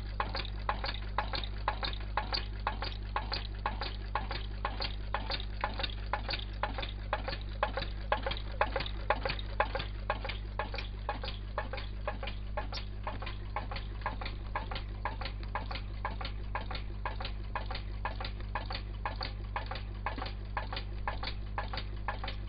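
Homemade large-flywheel Stirling engine running steadily, its mechanism ticking in an even, quick rhythm of a few clicks a second over a steady low hum.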